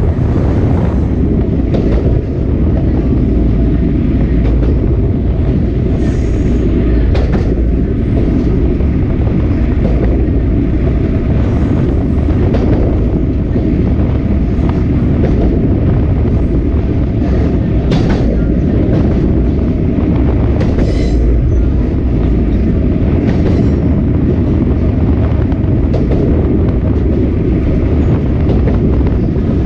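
Sagano Romantic Train's open carriage running on the track: a loud, steady rumble of wheels on rails, with a sharp click from the rails now and then.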